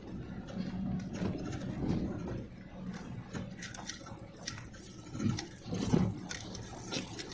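An engine running low and steady, with scattered clicks and knocks, the loudest about five and six seconds in.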